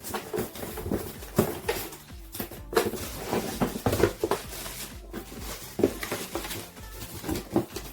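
A product box and its packaging being opened and handled by hand: irregular knocks, taps and rustles.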